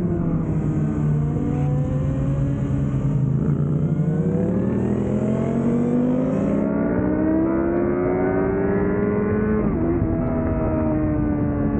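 2005 Yamaha YZF-R6's inline-four engine through a Laser aftermarket exhaust, heard on board at speed. The revs drop at first as it slows, then climb steadily for several seconds under acceleration, with a brief break about ten seconds in as it shifts up.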